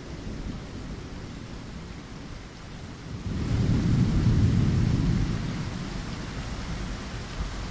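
Steady rain with a low roll of thunder that swells about three seconds in and dies away over the next few seconds.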